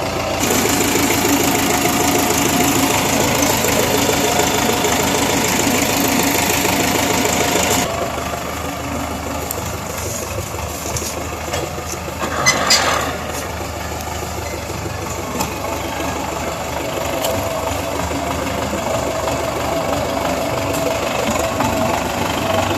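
Belarus tractor's diesel engine running hard as it pulls a trolley, louder for about the first eight seconds and then easing off. A brief sharp noise cuts through about twelve seconds in.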